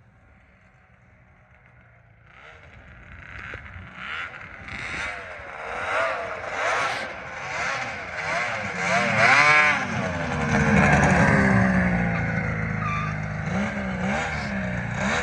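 Big-bore Arctic Cat Thundercat 900 snowmobile, a two-stroke triple, revving up and down repeatedly as it is ridden. It rises out of near quiet after about two seconds and grows louder, loudest around the middle.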